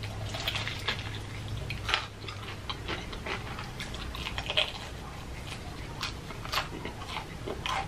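A person biting into and chewing crispy fried chicken: irregular crunches and wet mouth clicks, a few of them louder.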